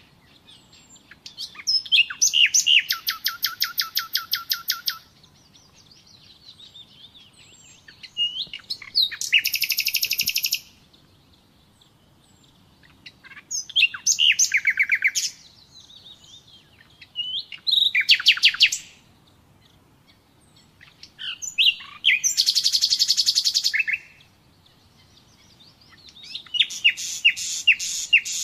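Common nightingale singing: six phrases of fast repeated, whistled notes, each lasting one to three seconds, separated by short pauses.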